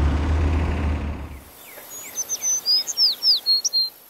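A low traffic rumble that stops about a second and a half in, followed by a quick run of about ten high bird chirps, each sliding down in pitch.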